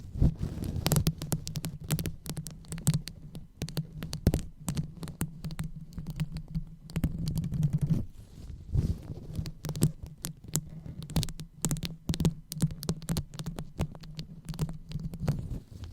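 Close-miked ASMR brain-massage sounds: fingers rubbing and scratching on the microphone, giving a dense irregular crackle over a steady low rumble.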